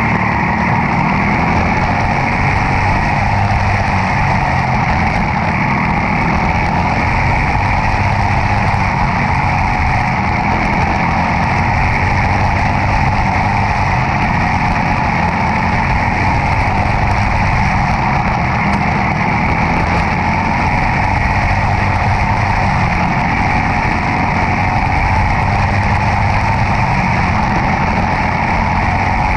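Demolition derby car's engine running steadily and loudly, with no distinct crashes.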